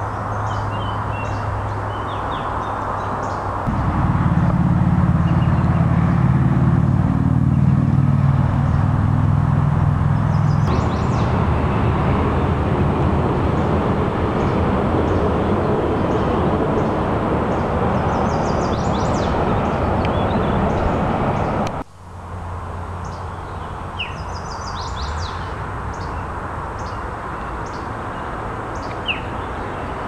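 Small birds chirping repeatedly over a steady rushing background noise. A louder low drone comes in about four seconds in and fades out by about eleven seconds. The sound drops out for an instant about 22 seconds in, then the chirping and background noise carry on.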